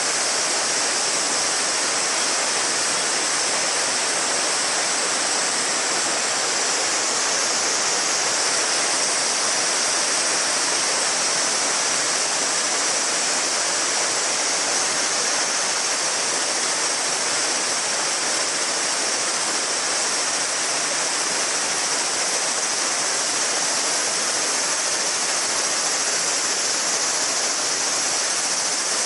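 Shallow river babbling steadily over stones, with a cicada chorus as a steady high buzz over it.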